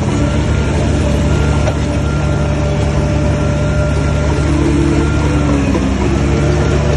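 Heavy diesel engine of earthmoving machinery running steadily under load, with a few faint whining tones above the engine that shift slightly in pitch.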